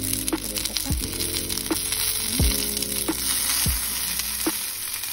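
Halved tomatoes, onions, green chillies and garlic sizzling in hot oil in a frying pan, a steady high hiss. Background music with held notes and a slow regular beat plays over it.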